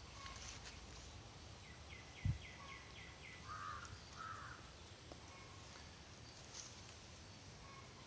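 Faint bird calls: a quick run of about seven short high chirps, then two harsh crow-like caws. A single low thump comes about two seconds in.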